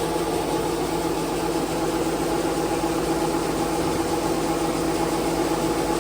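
Case IH tractor engine running steadily at an even speed, a constant drone.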